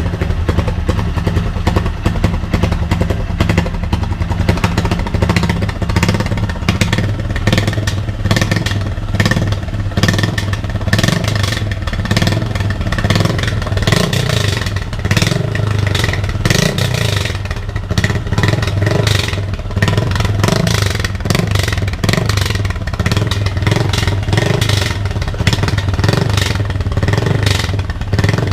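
Honda CG 160's single-cylinder four-stroke engine idling loudly through a homemade exhaust tip made from cans, with a rough, uneven beat and a rapid crackle of sharp pops. The idle wavers from about eight seconds in.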